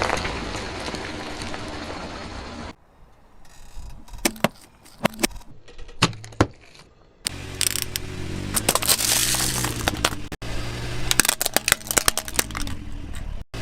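Car tyres rolling over brittle objects and crushing them: a run of sharp cracks and crunches over the low hum of the car's engine. The sound changes abruptly several times, as different objects are crushed.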